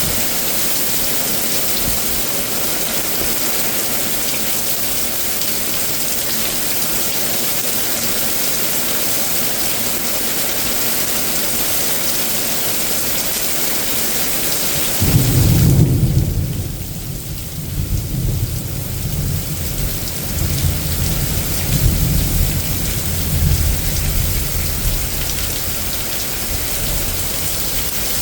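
Heavy rain pouring down steadily, then about halfway through a loud clap of thunder breaks in and rolls on as a low rumble for around ten seconds, swelling again before it fades, while the hiss of the rain thins out.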